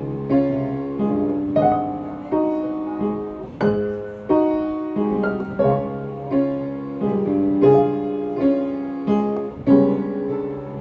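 Piano music, slow and melodic, with a new note or chord struck about every three-quarters of a second and left to ring and fade.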